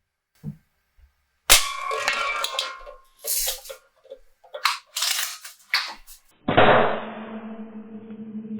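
A Sheridan Cowboy BB rifle firing at an empty soda can: a sharp crack about a second and a half in, with a ringing tail that fades over about a second and a half. Several shorter sharp snaps and clicks follow, and music starts near the end.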